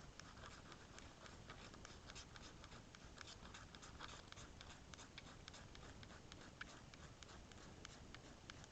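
Faint, quick, irregular scraping strokes: shavings being scraped off the shaving side of a magnesium fire-steel block to make tinder for lighting a fire.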